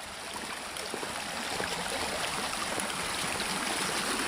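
Rainwater runoff flowing along a road that the water has turned into a gutter, a steady rush of running water that grows gradually louder.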